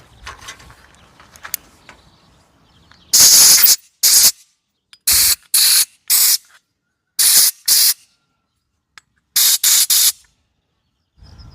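About ten short hissing bursts of pressurised spray with silence between them. The first is the longest, about half a second; the rest come in quick groups of two or three.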